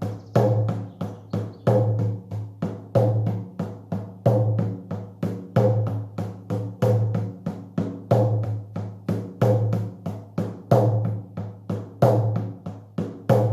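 Shamanic journey drum beaten in a steady, repeating rhythm: a loud accented stroke about every 1.3 seconds with lighter strokes between, each ringing with a low tone. This is the monotonous trance beat that carries the journey.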